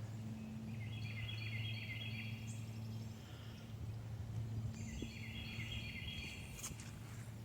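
A songbird singing two chattering phrases, each about two seconds long, over a steady low hum.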